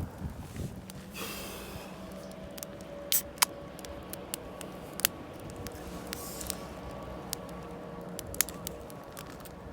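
Wood campfire crackling, with irregular sharp pops and snaps over a steady hiss, and two brief swishing rustles.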